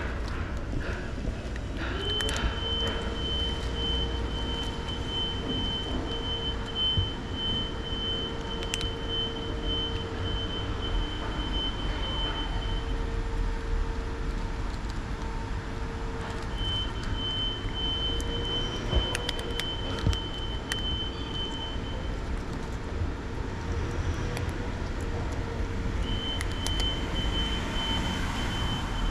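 Steady low rumble of road traffic. A constant hum comes in about two seconds in, and a thin high tone sounds in three long stretches over it, with a few faint clicks.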